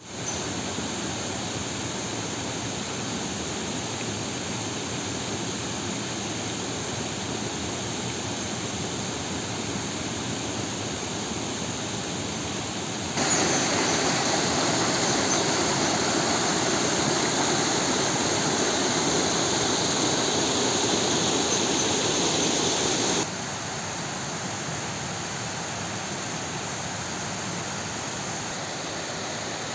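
A waterfall's water rushing and splashing in a steady hiss. It jumps abruptly louder about thirteen seconds in and drops back just as suddenly about ten seconds later.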